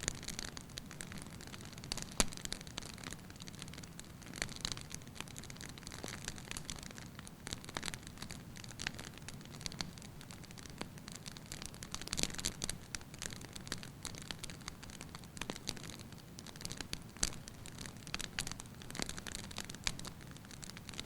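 Logs burning in a wood fire, crackling steadily with frequent irregular sharp pops over a soft low rush of flame. The strongest pops come about two seconds in and again about twelve seconds in.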